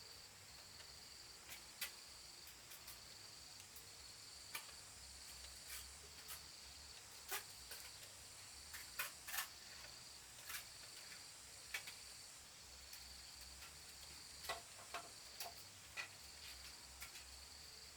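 Insects trilling steadily at a high pitch, with a second, higher steady tone above. About fifteen sharp clicks and taps are scattered irregularly through it.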